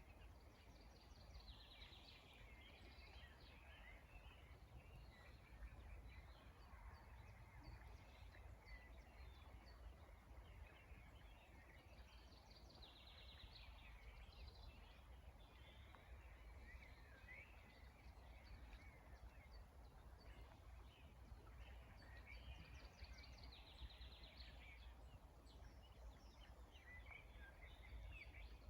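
A faint chorus of songbirds, many short chirps and whistles, with one song of a quick, high trill coming back about every eleven seconds. A steady low rumble lies underneath.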